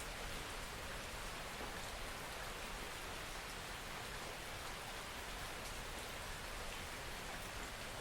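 Steady soft rain falling, an even hiss with faint scattered drops.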